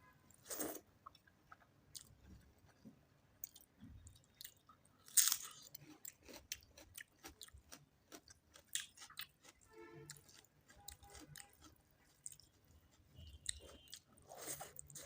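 Close-up eating sounds of a meal of chicken curry and rice: irregular wet chewing, bites and crunches with mouth clicks, the loudest bite about five seconds in.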